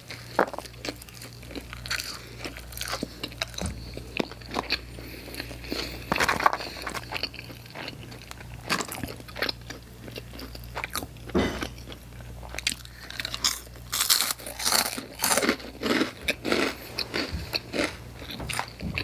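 Close-up chewing and crunching of pizza topped with hot Cheetos: irregular crunchy bites and chews, coming thicker near the end, over a faint steady low hum.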